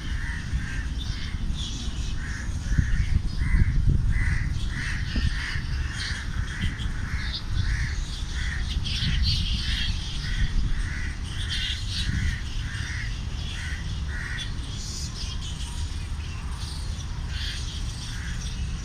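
A bird calling in a long, regular series of short calls, about two a second, that breaks off about two thirds of the way through and resumes briefly near the end, with fainter higher chirps from other birds. Wind rumbles on the microphone underneath.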